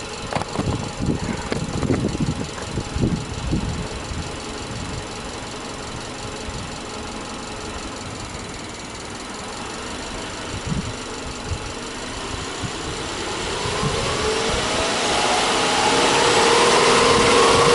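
Subaru Legacy B4 2.5i's naturally aspirated 2.5-litre flat-four idling with the bonnet open, a few dull bumps in the first few seconds. From about two-thirds of the way in it is revved up without load, the pitch rising and the sound growing louder, then held at high revs.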